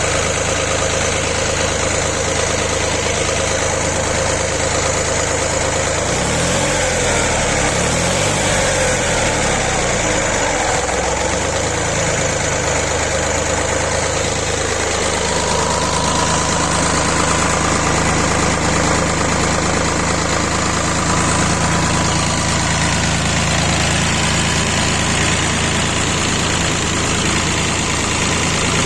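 D-130 diesel engine running steadily at about idle. Its note wavers for several seconds a little way in, then settles to a steady speed for the rest.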